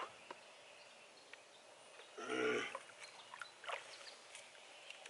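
A short grunt-like voice sound about two seconds in, amid faint scattered clicks and rustling.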